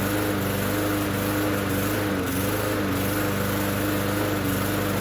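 Bolens push mower's small engine running steadily, its pitch sagging briefly about two seconds in. The owner suspects water in the fuel or carburetor.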